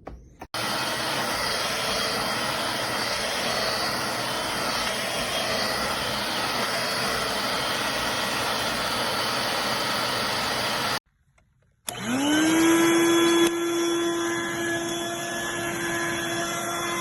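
Dirt Devil Vibe corded stick vacuum running with a steady rushing noise. After a short break the motor starts up, its whine rising quickly and settling into a steady high hum.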